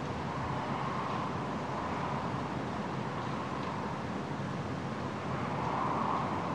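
Steady vehicle-like drone with a broad hiss, swelling slightly near the end.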